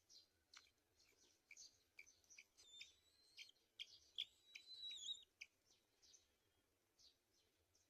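Faint bird calls: a string of short, high chirps, with a longer held whistle in the middle, thickest around three to five seconds in.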